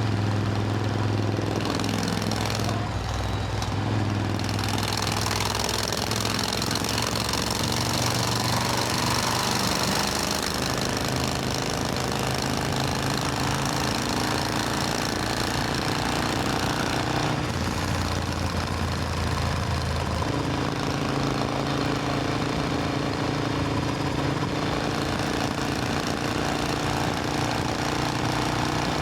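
Supercharged Triumph Thunderbird Storm's parallel-twin engine running steadily on the move. Its pitch steps to a new level about a third of the way in and twice more past halfway.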